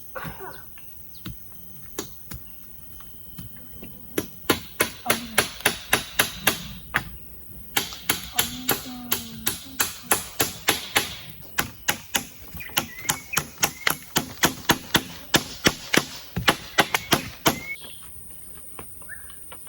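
A tool striking wood in quick repeated blows, about three a second, in runs of several seconds with short pauses, starting about four seconds in: chopping or hammering while building a shelter.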